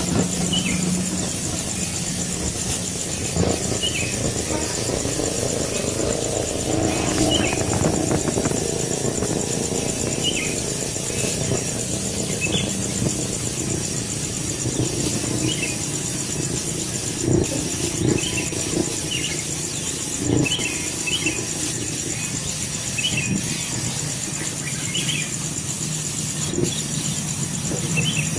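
A bird's short, high-pitched chirps repeating irregularly, about one every second or two, over a steady high pulsing whine and a low outdoor hum.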